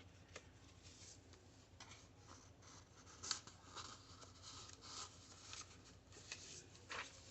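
Faint handling of paper and card: light rustles and small taps and clicks, the sharpest about three seconds in and again near the end.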